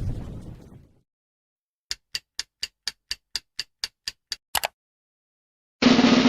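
A boom fading out in the first second, then a ticking-clock sound effect: about four evenly spaced ticks a second for nearly three seconds, the last tick doubled. Near the end a loud, steady noise starts abruptly.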